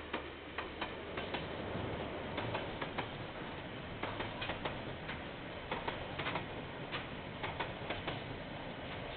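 A train passing on the line, its wheels clicking over rail joints in an irregular run of sharp clicks over a steady rolling noise, heard through a security camera's microphone.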